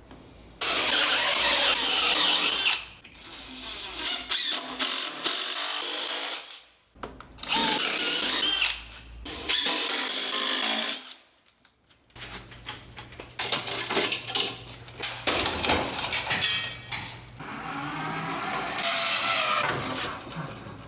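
Handheld power tool, most like a drill or driver, running in several separate bursts with abrupt breaks between them.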